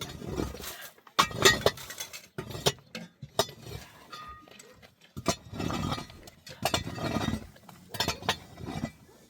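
Irregular clinks and knocks of hard objects, with bursts of rough scraping and rustling between them.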